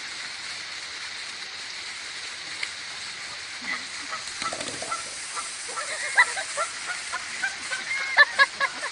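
Geese honking: many short calls over a steady hiss, growing denser and louder through the second half.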